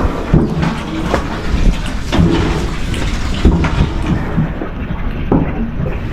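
Wind buffeting the microphone in a steady low rumble, with scattered knocks and clatter.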